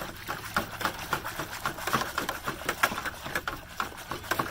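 Dye being stirred briskly in a plastic container, the stirring utensil scraping and clacking against the sides several times a second; loud.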